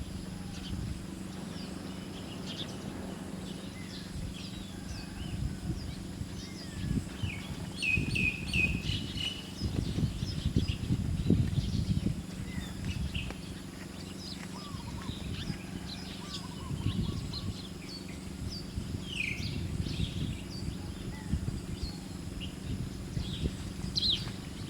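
Wild birds chirping in short, scattered notes, busiest about a third of the way in and again past the middle, over a low, uneven rustling and a steady low hum.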